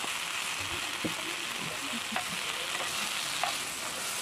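Bok choy sizzling in a frying pan, a steady hiss, with a few sharp clicks of a metal spoon against the pan as the greens are stirred.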